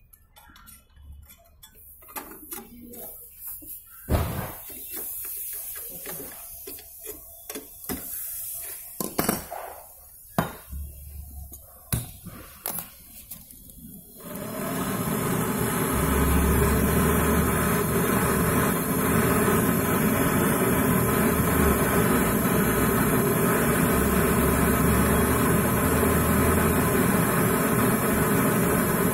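Scattered clicks and knocks of tools being handled, then about halfway through a gas brazing torch flame starts up with a loud, steady hiss. The torch is heating the copper pipe joints on the refrigerator compressor so they can be unbrazed.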